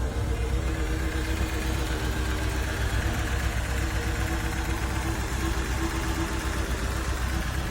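Car engine idling steadily, most likely the 1982 Fiat 124 Spider's four-cylinder, with an even hum and no revving.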